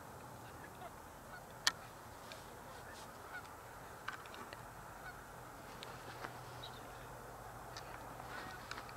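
Faint distant bird calls over a steady outdoor background hiss, with a single sharp click a little under two seconds in.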